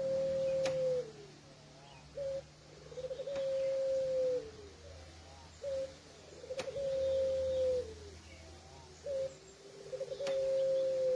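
Puter pelung, a long-cooing domestic ringneck dove, cooing in a repeated phrase about three times: a short note, a stuttering lead-in, then a long drawn-out coo held about a second that falls away at its end.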